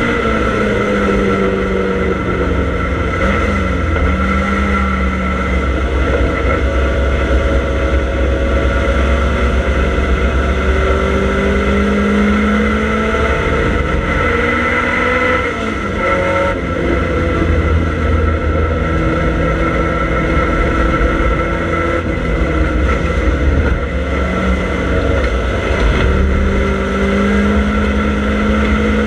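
Triumph Dolomite Sprint's 2.0-litre slant-four engine at racing speed, heard from inside the cabin, its note rising and falling again and again with the throttle. There is a brief drop in level about halfway through.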